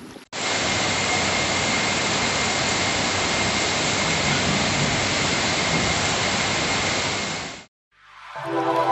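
Steady, loud rushing hiss of heavy rain, which stops abruptly near the end.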